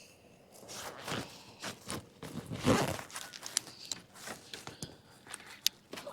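Irregular knocks, clicks and rustling of fishing gear being handled in a kayak, with the loudest knock a little under three seconds in.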